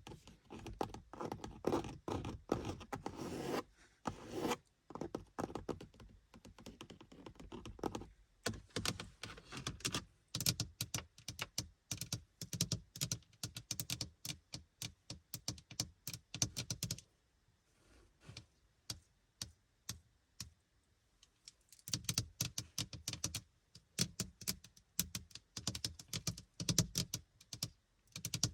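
Tapping and scratching on a car's interior surfaces: fast runs of light taps with some scratching, thinning to a few quiet taps for several seconds past the middle before picking up again.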